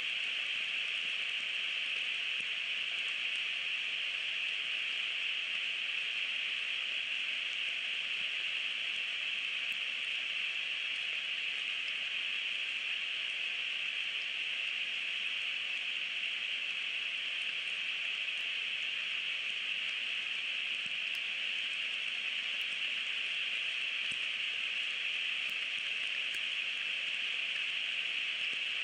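Steady rain falling around the nest: a constant, even hiss with no breaks.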